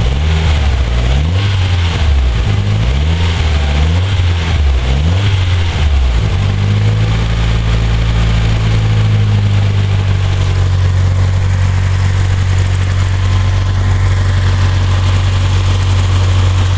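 Nissan S14 car engine revving up and down about once a second for the first six seconds, then settling to a steady idle. The engine has a knocking noise.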